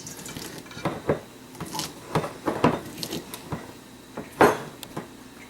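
Irregular knocks, clicks and clinks of sliced vegetables and utensils being handled and packed into a container for pickling, with one louder knock near the end.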